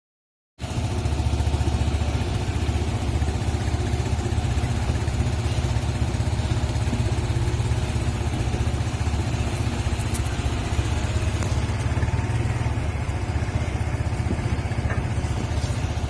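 Truck engine running steadily with a clattery low throb, starting abruptly about half a second in.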